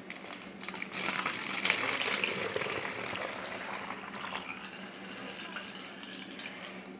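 Vinegar being poured through a funnel into a bottle: a liquid gush starts about a second in, is strongest for a couple of seconds, then eases to a thinner trickle.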